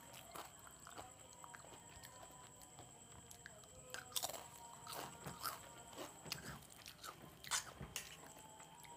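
Close-miked chewing and crunching of crisp snacks (potato chips and Kurkure) in the mouth: irregular crackly crunches, the loudest about four seconds in and again near the end.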